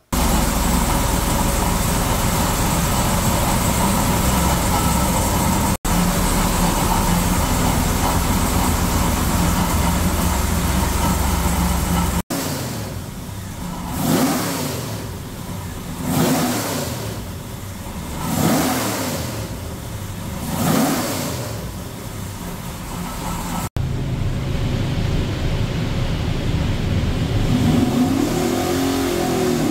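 Hilborn stack-injected 582 ci big-block Chevy running loudly and steadily on an engine dyno. In the middle come four quick throttle blips, each rev rising and falling, and then it runs steadily again. The sections are broken by abrupt cuts.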